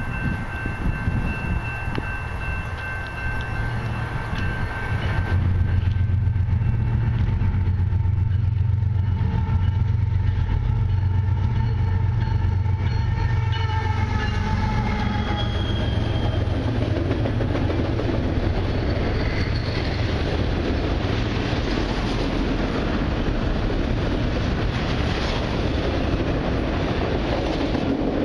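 Canadian Pacific freight train passing, led by a GE ES44AC diesel locomotive and a second CP locomotive. The lead unit's horn sounds for the first several seconds, its pitch sliding lower as the locomotives go by with a deep engine rumble. Then a long string of autorack cars rolls past with steady wheel-on-rail noise and clickety-clack.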